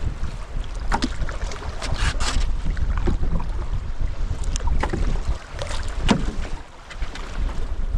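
Strong wind buffeting the microphone with a heavy low rumble, and irregular water splashes and slaps every second or two as a canoe is paddled through wind-driven waves.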